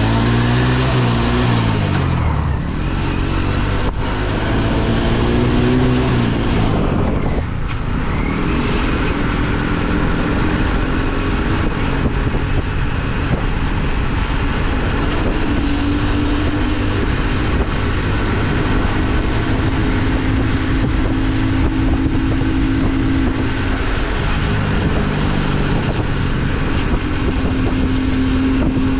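Small motorcycle engine, a Kuba X-Boss 50 bored out to 80cc, pulling away and revving up through the gears: its pitch rises and drops three times in the first eight seconds, then it holds a steady cruise with another rise and fall near the end. Wind rushes over the helmet camera throughout.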